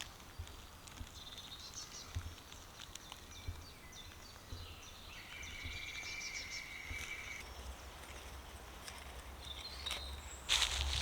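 Small birds singing and calling in woodland: short chirps and trills, with one held whistled note in the middle. Near the end a loud rustling of leaves and twigs starts up close.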